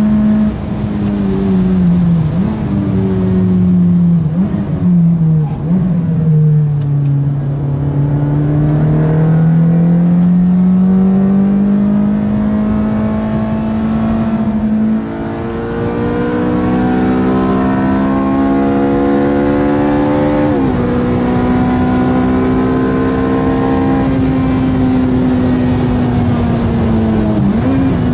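Ferrari F430's V8 engine running through a Capristo aftermarket exhaust, driven hard on track. The engine note rises and falls with the throttle, with several quick dips in pitch in the first few seconds, a long climb, and a sharp dip about twenty seconds in at a gear change.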